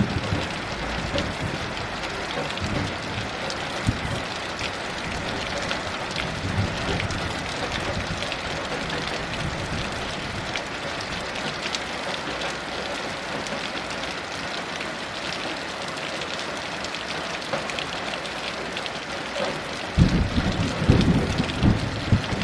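Heavy rain falling steadily in a dense hiss. A low rumble of thunder rolls in near the end.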